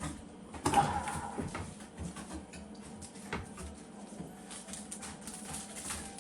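Scattered light knocks and clicks of things being handled, louder about a second in, over a faint steady hum.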